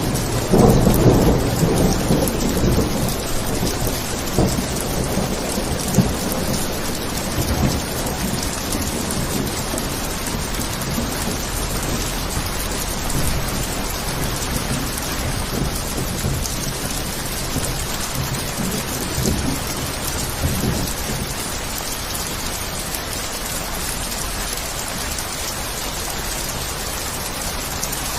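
Steady heavy rain falling, with a roll of thunder that starts about half a second in and rumbles down over several seconds.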